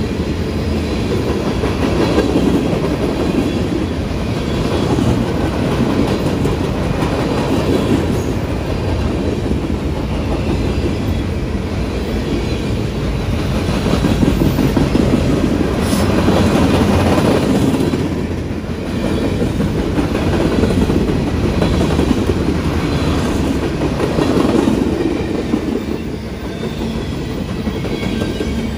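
Freight train cars rolling past, steel wheels clicking over rail joints under a steady rumble that swells and eases every few seconds.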